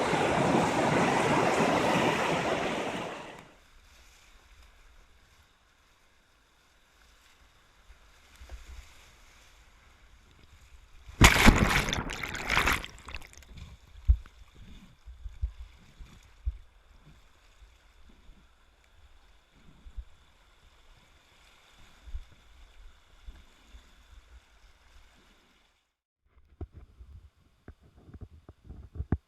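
Whitewater rapids rushing loudly for the first few seconds, then dropping away abruptly. After that it is mostly quiet, with scattered knocks and thumps and a brief loud rush of noise about eleven seconds in.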